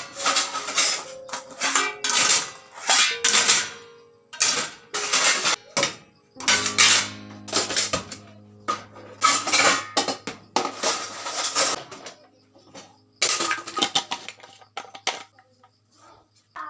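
Dishes and cutlery clinking and clattering as they are handled, in a string of short, irregular bursts.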